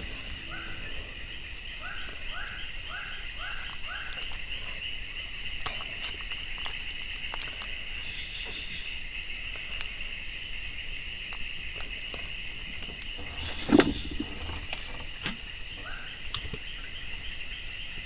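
Night forest insects, crickets, chirping steadily with a fast pulsing high trill over a constant high hum. About a second in comes a run of about five short rising calls, and a single knock sounds near fourteen seconds in.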